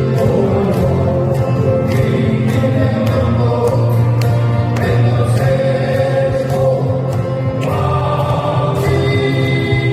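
Live music: several voices singing together over acoustic guitars, the sound continuous and steady in level.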